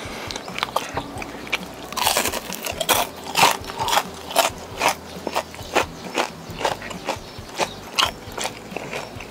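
Crunchy chewing of crispy battered fried shrimp, close to the microphone. The crunches come about twice a second and grow louder and more regular from about two seconds in.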